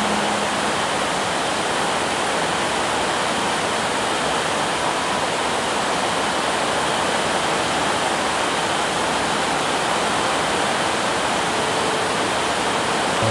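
Heavy rain falling in a steady, even hiss, with runoff pouring off roof edges.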